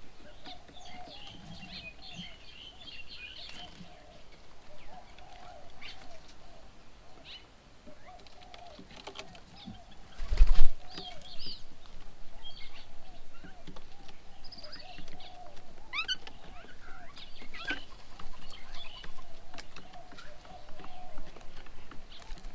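Birds calling at a garden bird table: a low call repeating steadily under scattered higher chirps and whistles. A single loud thump comes about ten seconds in.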